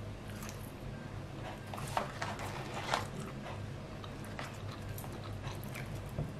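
Close-up chewing and mouth clicks of a person eating McDonald's food, French fries going in near the end, with two louder clicks about two and three seconds in. A steady low hum runs underneath.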